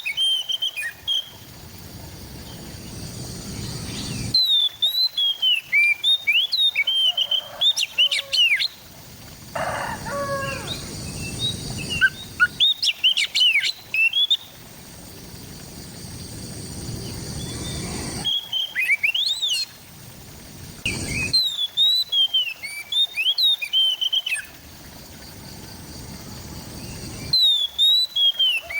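Oriental magpie-robin (kacer) singing: rapid, varied whistled phrases with quick rising and falling notes. The song comes in bursts of a few seconds, separated by pauses filled with a low rumbling background.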